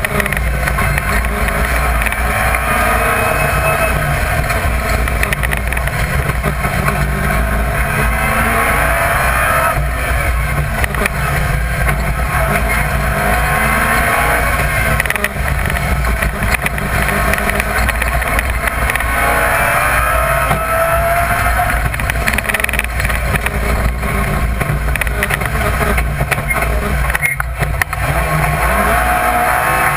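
BMW Compact rally car's engine heard from inside the cabin, driven hard along the stage. Its pitch climbs and falls back again and again as the car accelerates and shifts, over a heavy, steady low rumble of road and wind noise.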